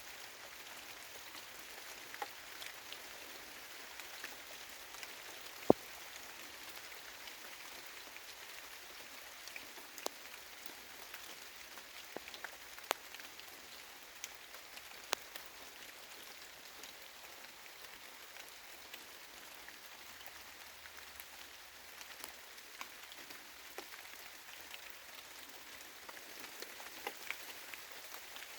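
Light rain falling on trees: a steady soft hiss with scattered sharp drops and drips, one louder drop about six seconds in.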